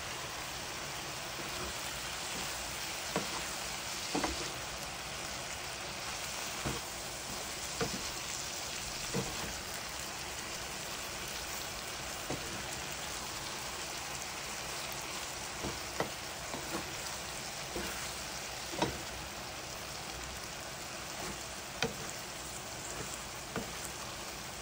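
String beans and pork sizzling in a frying pan, a steady frying hiss, with a wooden spatula knocking and scraping against the pan at irregular moments every second or two as the food is stirred.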